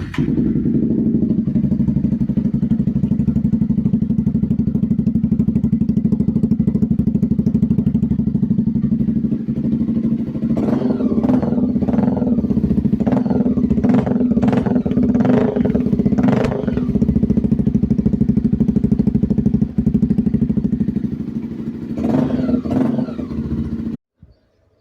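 Honda XR 250 Tornado's single-cylinder four-stroke engine, breathing through an aftermarket capsule exhaust, idling steadily. About halfway through it is revved in a quick series of throttle blips, then settles back to idle, is blipped once more, and cuts off abruptly near the end.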